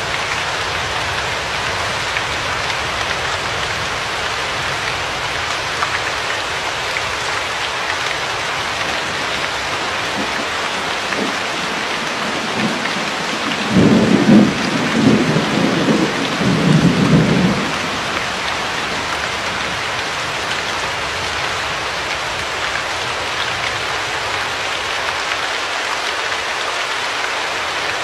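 Steady rain hiss, with a low rumble of thunder about halfway through that lasts around four seconds.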